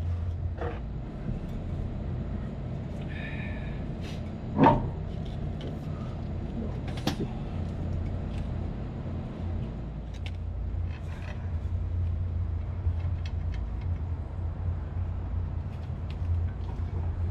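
Steady low machinery hum with scattered small clicks of tool work, and one loud sharp knock a little before halfway.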